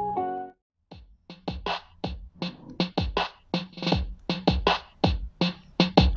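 Music played from a USB MP3 player board through a homemade 2SC5200 transistor amplifier into a pair of J-Audio woofers. A keyboard tune stops, there is a short pause, and then an electronic drum-machine beat starts, its deep kicks dropping in pitch after each hit.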